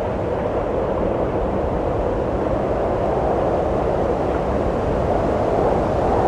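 Steady rushing wind that swells slowly and rises slightly in pitch near the end.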